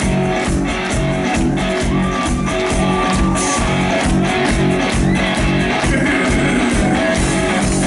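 Live rock band playing an instrumental passage with guitars, bass and a steady drum beat.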